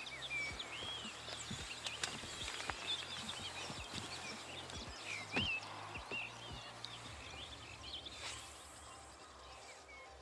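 Songbirds singing and chirping over a faint low rumble, with a few knocks and rustles from close handling, the sharpest about five seconds in.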